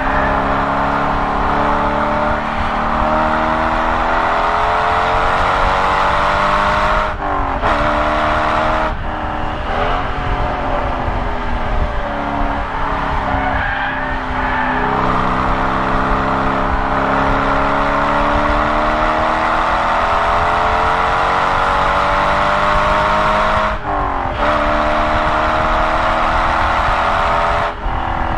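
Corvette Z06's LS6 V8 heard from inside the cabin under hard track driving, its note rising steadily as it pulls through each gear. It is broken by brief dips at gear changes about a quarter of the way in, again around two-thirds through and near the end.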